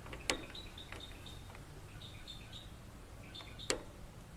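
Two sharp clicks about three seconds apart as the new plastic starter gear and its retaining clip are worked onto the lawn mower's starter, with faint bird chirps in the background.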